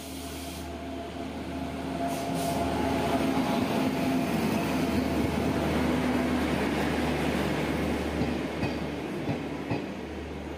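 Garib Rath express train pulling into the station behind an electric locomotive, passing close by. The locomotive's hum and the rumble of the coaches' wheels grow louder over the first few seconds, then ease off as the coaches roll past, with a few wheel clicks near the end.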